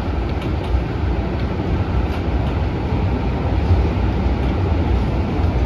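Loud, steady wind rush and deep rumble inside a running MTR CAF-built metro train car: air leaking into the carriage, described as severe leaking.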